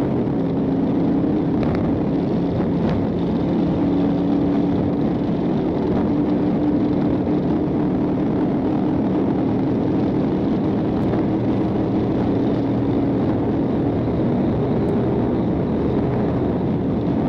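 Engine and road noise inside a state patrol Dodge Charger driving at high speed in pursuit. It is a steady, loud drone that holds an even pitch.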